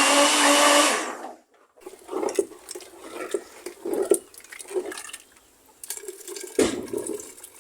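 Electric blender running with a steady hum, switched off about a second in. Then come scattered quieter sounds of liquid being handled, with one sharp knock later on.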